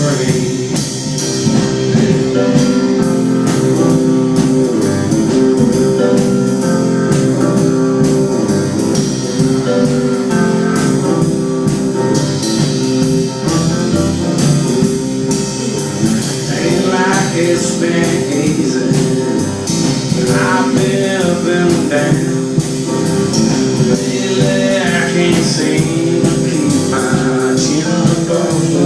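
Live band playing a blues-rock song, with piano, guitar and drum kit, and a male voice singing, mostly in the second half.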